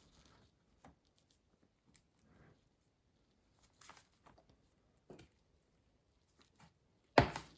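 Faint scattered clicks and scrapes as the bottom case of a 2017–2019 MacBook Pro is pried loose, then near the end a single loud snap as one of the case's retaining clips pops free.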